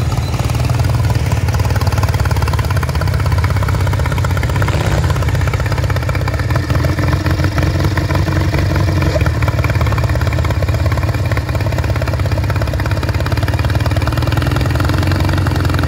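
Lawn-tractor engine running steadily and close, a low, even pulsing drone.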